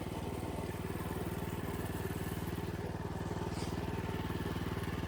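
Small minibike engine running steadily at an even speed, with a fast, regular firing beat.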